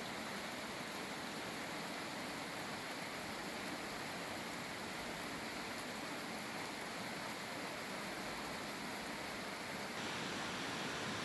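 Steady rain falling: an even hiss of water that grows a little louder and brighter near the end.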